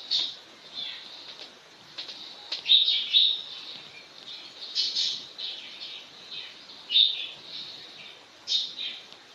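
Small birds chirping, with short high calls coming every second or so; the loudest come about three seconds in and again near seven seconds.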